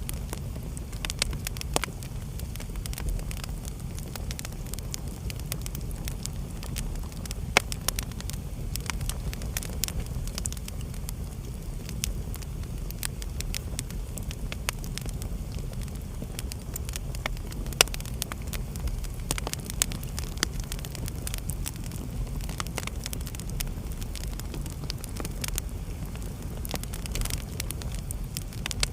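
Wood fire burning in a fireplace: a steady low rumble of flame with frequent small crackles and the odd louder pop, two of them about a third and two thirds of the way through.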